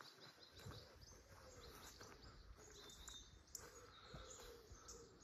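Very faint outdoor quiet with distant birds chirping now and then.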